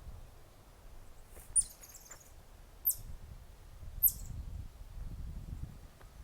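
A bird's high, short chirps, three quick downward-sweeping notes about a second or so apart, over a low outdoor rumble.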